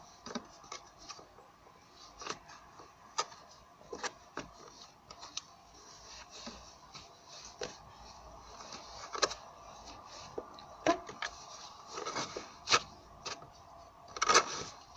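Hands squeezing and stretching a firm, dry, sand-like glitter slime, giving irregular small clicks and crackles. A denser, louder burst of crackling comes near the end.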